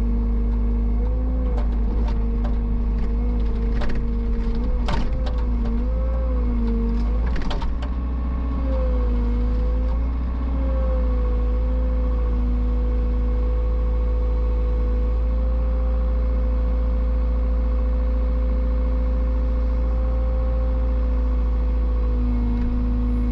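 Excavator's diesel engine running steadily, with a hydraulic whine that wavers in pitch as the machine works. A cluster of sharp knocks and clatters comes between about four and eight seconds in as it grabs wooden slabs.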